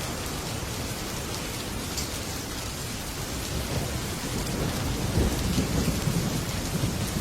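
Heavy rain falling on a metal roof, a steady hiss, with a low rumble of thunder swelling from about four seconds in.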